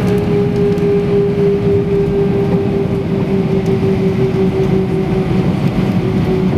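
Airbus A320-232's IAE V2500 engines heard from inside the cabin: a steady engine hum with a clear mid tone that sinks slightly in pitch, over a low rumble.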